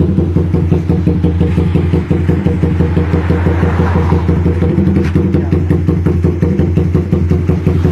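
Suzuki Raider 150 Fi single-cylinder motorcycle engine running steadily through a Daeng Sai 4 aftermarket exhaust, a rapid even exhaust pulse at constant pitch.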